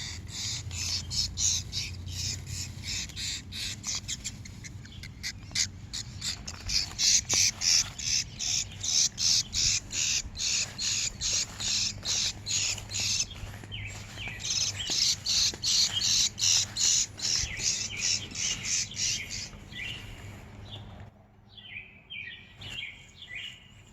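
A bird chirping over and over, about two to three sharp, high chirps a second, with a short pause midway, then fainter chirps near the end.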